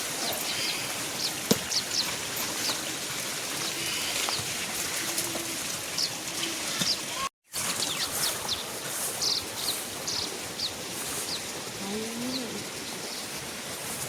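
Small birds chirping in short, high calls over a steady hiss of outdoor background noise, with a few lower, sliding calls near the end. The sound cuts out for a moment about seven seconds in.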